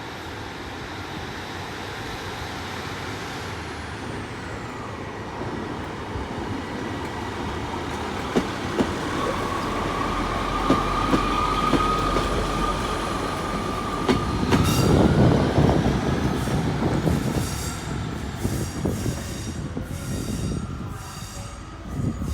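Diesel multiple unit pulling out of a station. Its running noise builds steadily, a steady whine comes in partway through and rises about fourteen seconds in, and the wheels click over rail joints, loudest around fifteen seconds in.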